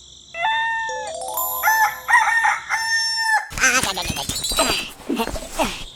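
A rooster crowing: long, drawn-out calls held at a steady pitch for about three seconds. A busier, wavering stretch of calling follows.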